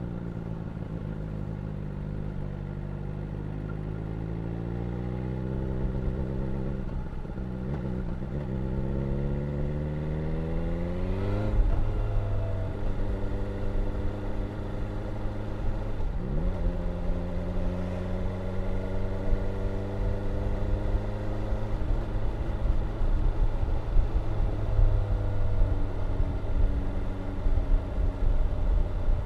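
2022 BMW S1000R's 999 cc inline-four engine and exhaust under riding load: the pitch climbs steadily for several seconds as the bike accelerates, breaks at a gear change about twelve seconds in, dips and recovers again around sixteen seconds, then holds fairly steady at cruise. A low rushing noise grows with speed underneath.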